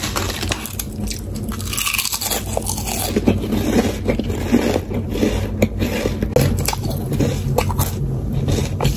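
Close-up chewing of Lay's potato chips: a run of crisp, irregular crunches as the chips are bitten and chewed with the mouth closed.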